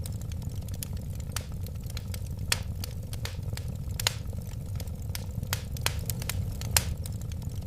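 Wood fire burning with a steady low rumble of flames and irregular sharp crackles and pops, a few louder snaps standing out.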